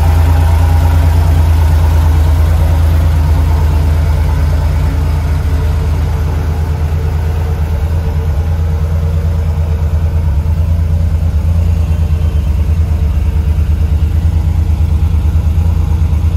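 1982 Porsche 911SC's air-cooled 3.0-litre flat-six engine idling steadily at about 1,000 rpm.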